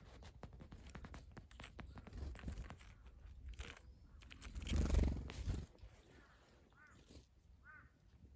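Birds feeding: scattered short pecking or scratching clicks, a louder low rush about five seconds in, and two short arched calls near the end.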